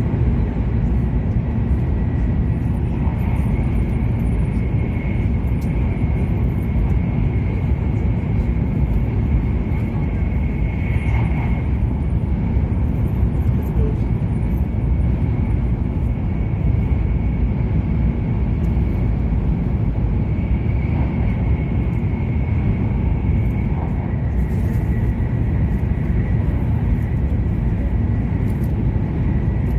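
E7 series Shinkansen running steadily at speed, heard from inside the passenger cabin: an even, loud low rumble with a faint steady high-pitched tone above it.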